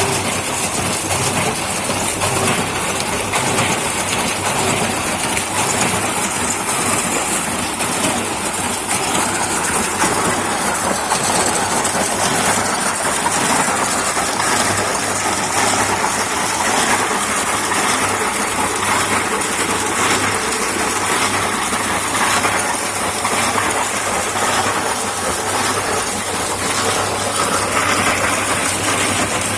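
Homemade concrete mixer running steadily, its drum turning and churning a concrete mix.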